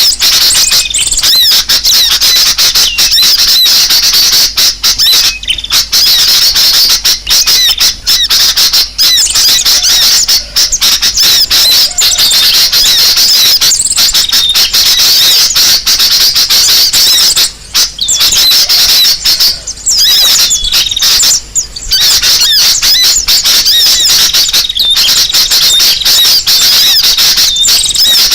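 Bird-lure recording of many small birds chirping and squeaking at once in a dense, loud, excited chorus, with a few brief drop-outs. It is the 'noisy birds' commotion track played to draw other birds in.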